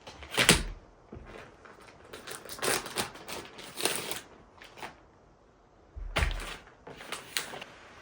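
Cookware and utensils being handled: scraping and clattering, with a heavier knock about half a second in and another about six seconds in.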